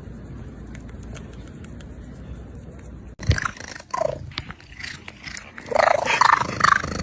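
Low steady background noise, then after a sudden cut about three seconds in, a pet animal cries loudly in a series of drawn-out calls that slide up and down in pitch, getting louder toward the end.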